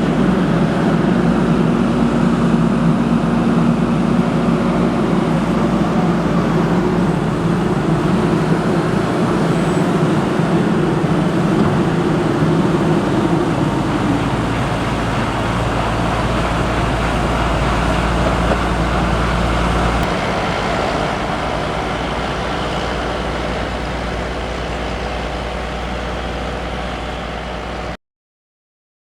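Heavy diesel farm machinery running steadily, its sound slowly fading. It cuts off suddenly near the end.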